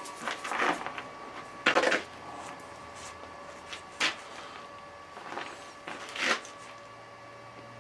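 A few scattered clunks and rattles of things being handled and set down, the sharpest one about four seconds in, over a faint steady hum.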